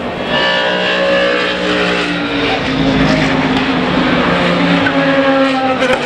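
Le Mans prototype and GT race cars at speed on the circuit, several engine notes overlapping and shifting slowly in pitch as they pass.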